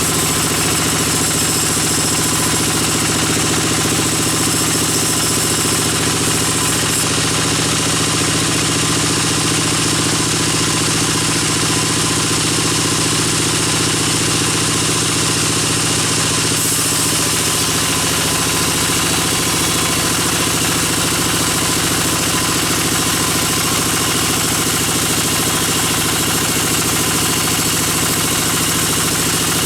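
A sawmill's band saw machinery running steadily with a constant mechanical drone. The tone shifts slightly about halfway through.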